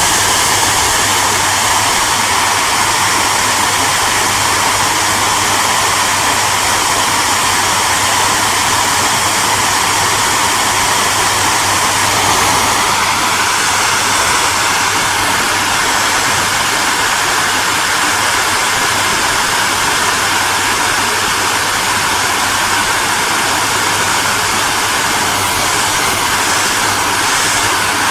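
Hair dryer running steadily: a continuous blowing rush over a low motor hum. The rush turns slightly brighter about halfway through.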